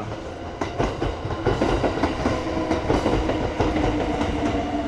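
Kintetsu electric train moving through the station, its wheels clacking over the rail joints, with a steady tone underneath from about a second and a half in.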